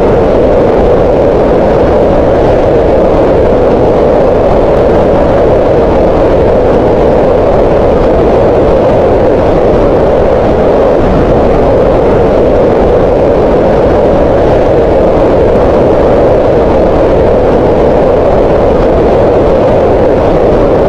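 Green noise: a steady, even rushing noise that sits mostly in the middle of the pitch range and stays the same throughout.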